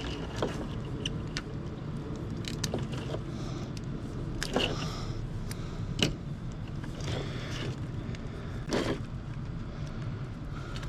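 Scattered knocks and clinks of scrap being handled and tossed aside during sorting, over a steady low rumble.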